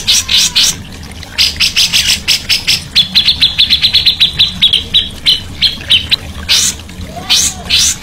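Songbird singing a rapid run of harsh, scratchy notes, several a second. About three seconds in, this turns into a quick series of clearer, even ticking notes for about three seconds before the harsh notes return.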